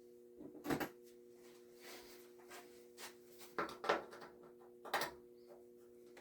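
Several sharp clicks and knocks of the tankless water heater's casing being handled as it is taken apart, loudest just before and at about four and five seconds in, over a steady low hum.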